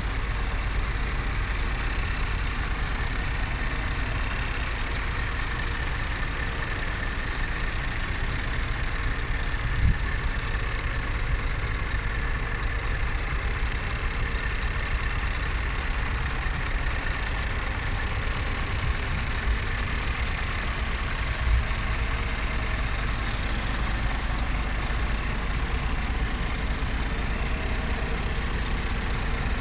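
Scania R480 truck's diesel engine idling steadily with a low rumble, with two short knocks about ten and twenty-one seconds in.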